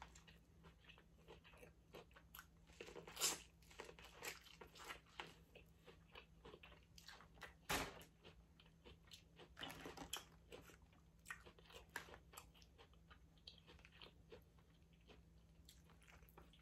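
Faint biting and chewing of Mexican street corn on the cob, close to the microphone: scattered soft crunches and wet mouth clicks, with sharper bites about three seconds in and near the eight-second mark.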